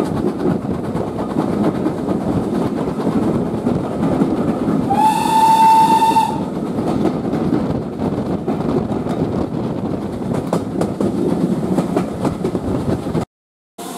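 Steam train running with a steady rumble and rail clatter; about five seconds in, the locomotive's whistle sounds once for about a second and a half. The sound cuts out abruptly just before the end.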